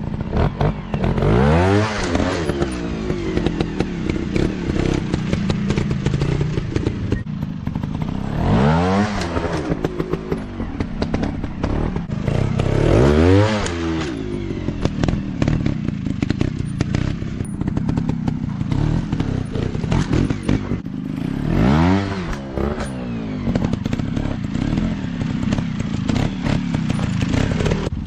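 Dirt bike engine running with four sharp revs that rise and fall, with clattering and thuds in between.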